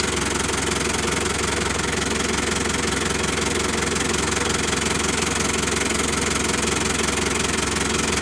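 A vehicle engine running steadily, with a fast even chugging.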